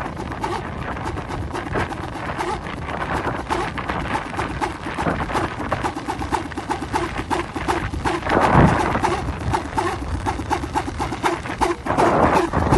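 Balinese pindekan, a wooden wind propeller, spinning in the wind with a fast, rapid pulsing whirr from its blades, swelling with the gusts about two thirds of the way in and near the end, over wind noise on the microphone.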